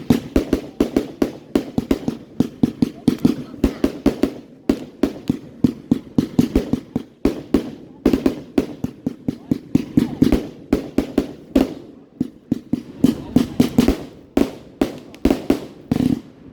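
Fireworks going off in a rapid, continuous barrage: sharp bangs and pops, several a second, packed close together.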